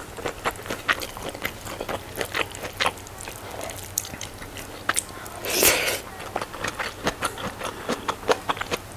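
Close-miked eating sounds: chewing and mouth smacks, heard as many small wet clicks, while rice and goat curry are eaten by hand. A brief, louder breathy noise comes about five and a half seconds in.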